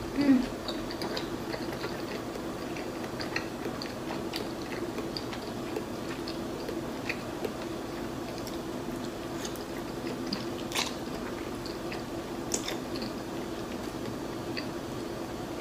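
Close-miked chewing and soft wet mouth sounds of someone eating dim sum (shrimp roll and garlic noodles), with small scattered clicks throughout. A short, louder muffled hum comes right at the start.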